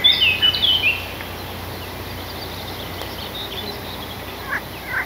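Songbird singing: a quick run of short, stepped, falling notes in the first second, then a few fainter scattered calls over a steady low background noise.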